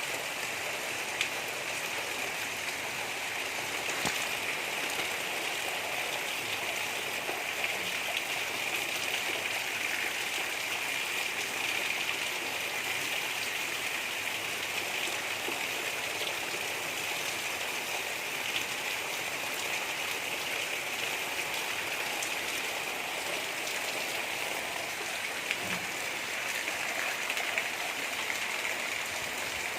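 Gentle, steady rainfall with scattered drops pattering on surfaces, without thunder or music.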